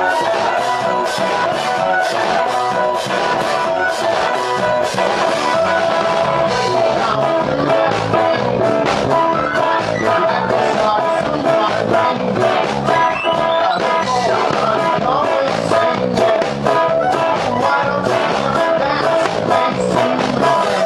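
Rock band playing live, with electric guitar, bass, synthesizer and drums, loud and continuous with a steady drum beat.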